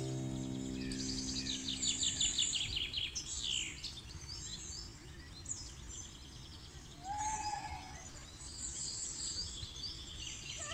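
Birds chirping and trilling, with a fast repeated trill in the first two seconds and a lower arched call about seven seconds in, over a steady low background rumble. A low droning tone with many overtones fades out over the first two seconds.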